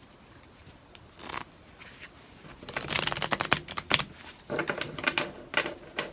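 Tarot deck being shuffled: a quick, dense run of card clicks about three seconds in, followed by softer handling of the cards.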